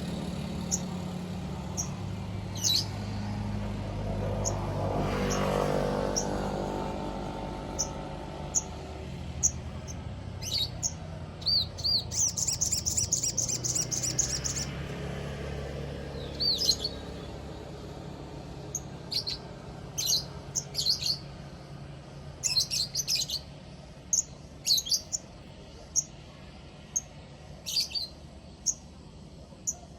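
Sogon bird chirping: short, high notes repeated at irregular intervals, with a rapid trill about twelve seconds in. A low engine hum swells and fades in the first several seconds.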